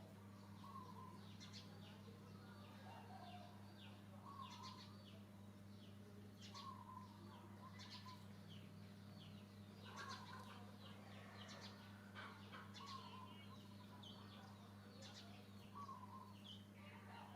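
Faint bird calls: a short call repeating about every two seconds, with scattered high chirps, over a steady low hum.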